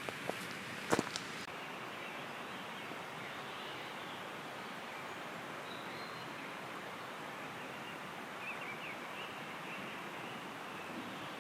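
Steady outdoor hiss of a winter forest, with one sharp snap about a second in and a few faint short chirps later on.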